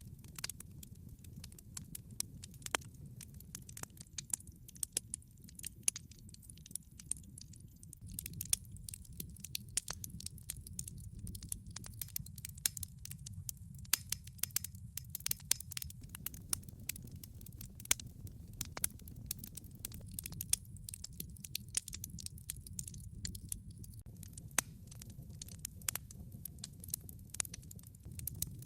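Wood fire burning, with a low steady rumble and frequent irregular crackles and pops from the logs.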